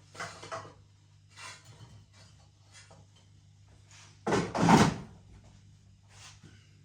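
Light knocks and handling noises, with a louder double knock about four seconds in.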